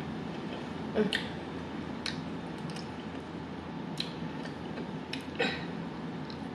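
Close-up mouth sounds of eating a barbecue rib: scattered wet clicks and smacks of chewing and gnawing meat off the bone, a second or two apart.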